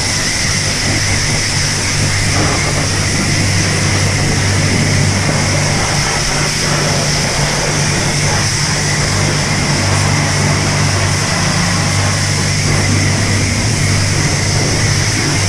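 Self-serve car wash high-pressure wand spraying water in a steady hiss, over a steady low hum.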